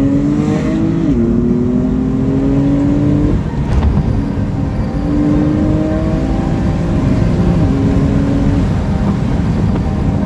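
Car engine under hard acceleration, heard from inside the cabin: its pitch climbs steadily, then drops sharply at each upshift, about a second in and again near the eighth second, before climbing again.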